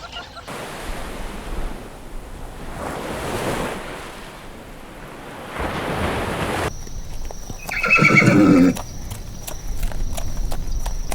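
A rushing noise that swells and fades for the first several seconds. Then come a run of clicks and a loud animal call lasting about a second, about eight seconds in.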